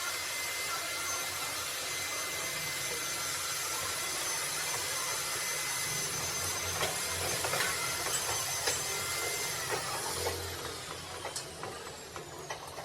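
A workshop machine running with a steady hiss and a faint whine. About ten seconds in, the whine falls in pitch as the machine winds down. Scattered small metal clicks are heard throughout.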